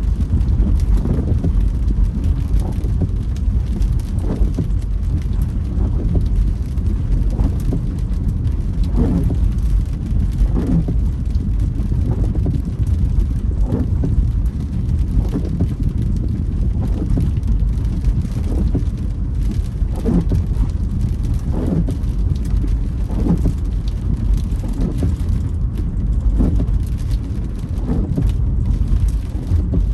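Windscreen wipers creaking across wet glass on each sweep, about once a second, over the steady rumble of the car driving in the rain.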